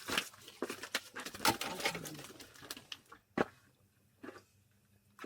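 A quick, irregular run of clicks, knocks and rustling, as of things being handled, with one sharp loud knock about three and a half seconds in and a fainter one a second later.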